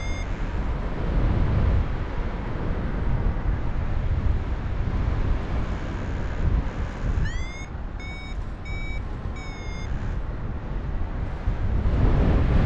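Wind rushing over the microphone in flight, with a paraglider's variometer beeping: one short rising beep at the start, then a quick run of four or five beeps about seven seconds in, the climb tone that signals rising air. The wind gets louder near the end.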